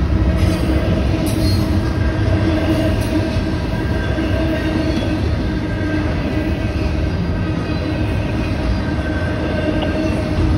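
CSX intermodal and auto-rack freight train rolling past at close range: a loud, steady rumble of steel wheels on rail, with faint steady squeal tones from the wheels.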